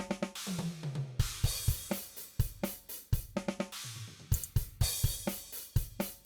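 DrumGizmo virtual drum kit playing back a groove of kick, snare, hi-hat and cymbals. About half a second in, and again about four seconds in, a short fill runs down the toms, falling in pitch.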